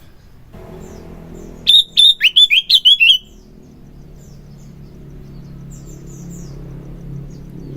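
Sooty-headed bulbul (kutilang) singing a quick run of loud, slurred whistled notes for about a second and a half, near two seconds in. Faint high chirps and a steady low hum lie underneath.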